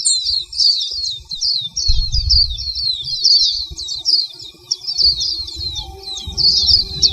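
Small songbird twittering: a fast, unbroken run of high chirps that slide downward, several a second, with a low rumble underneath at times.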